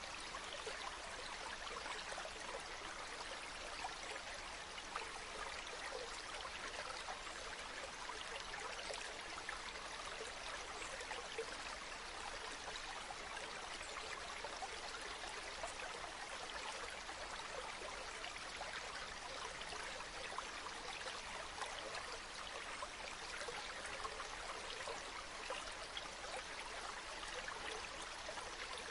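Steady running water of a small stream, an even wash dense with fine trickles and splashes.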